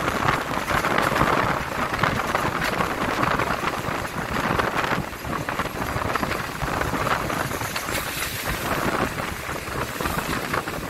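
Passenger train running along the track, heard from an open carriage door: a steady rushing noise of wheels on rails mixed with wind on the microphone.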